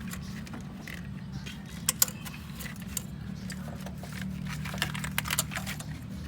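Car engine idling steadily, with scattered sharp metallic clicks and clinks of handling over it.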